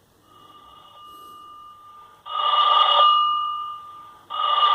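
Sagem myX5-2 mobile phone ringtone imitating a telephone bell, played through the phone's small speaker: a faint ring first, then two loud rings about two seconds apart, each fading out.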